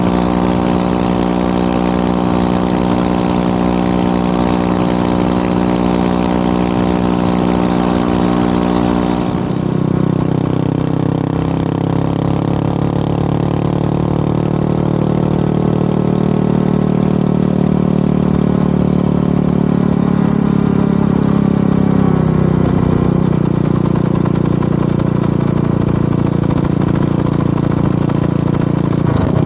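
Motorcycle engine running steadily. About ten seconds in its note changes suddenly to a lower, rougher one, and it shifts in pitch slightly again later.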